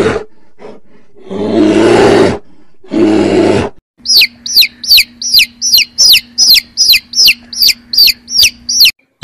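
Brown bear growling, three long low calls in the first four seconds. Then a young chick peeping steadily, about three high, falling peeps a second.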